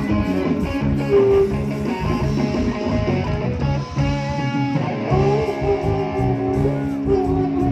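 Live band playing an instrumental passage without vocals: guitar over a steady pulsing bass line.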